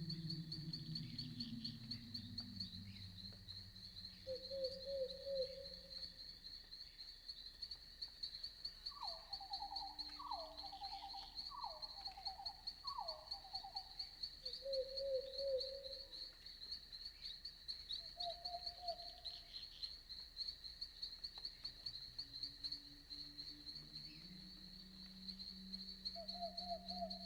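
Crickets trilling steadily in a night forest. Short pulsed calls from another animal cut in now and then, four of them about a second apart near the middle. A low wavering drone sits under the trill at the start and again near the end.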